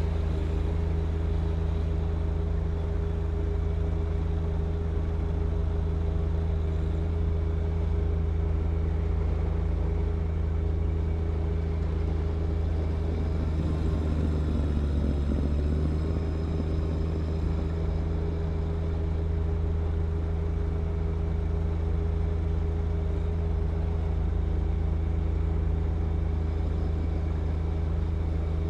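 John Deere 1025R compact tractor's three-cylinder diesel engine running steadily at working speed, driving the snow blower through wet snow. Its pitch dips briefly about halfway through under load, then recovers.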